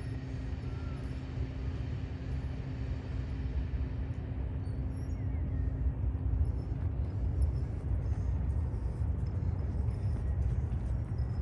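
Steady low rumble of city outdoor ambience, with a few faint high chirps scattered through it.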